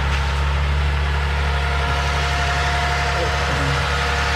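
2015 Lexus RX 350's 3.5-litre V6 idling steadily, freshly filled with new oil.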